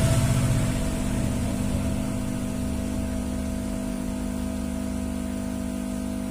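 Bajaj Pulsar motorcycle's single-cylinder engine idling, easing down from higher revs over the first couple of seconds and then running steadily.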